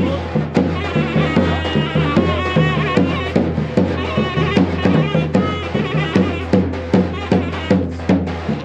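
Traditional Turkish folk dance music playing loudly: a steady drum beat under a high, ornamented, wavering melody.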